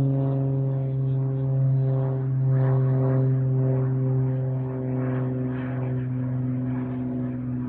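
Steady low engine drone with a strong hum and a stack of overtones, holding one pitch.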